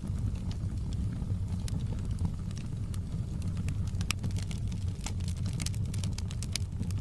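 Wood fire burning in a fireplace, crackling and popping in scattered sharp snaps over a steady low rumble. The snaps come more often in the second half.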